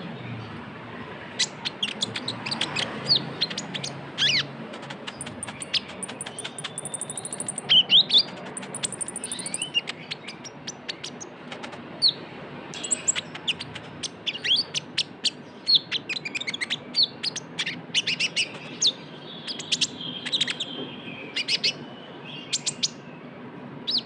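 Sunbird (konin, the 'kolibri ninja') singing a fast, continuous run of sharp high chirps and notes, with two quick high trills a few seconds in. Nearly non-stop 'trotol'-style song from a bird in full voice.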